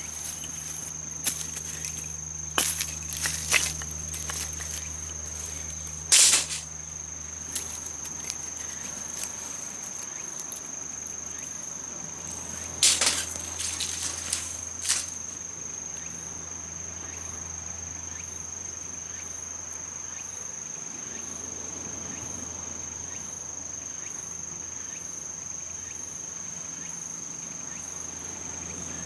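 Insects shrilling, a steady unbroken high drone, with a few sharp clicks and rustles of handling in the first half.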